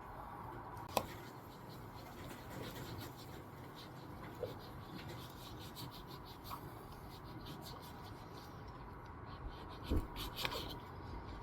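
Faint, irregular scratching and rubbing of a fingernail picking at the paper backing on a garage door seal's adhesive strip, working it loose, with a low knock near the end.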